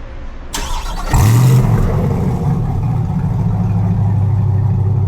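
Chevrolet Corvette C8's V8 starting up: a brief crank, then it fires about a second in with a short rev flare and settles into a steady, loud idle.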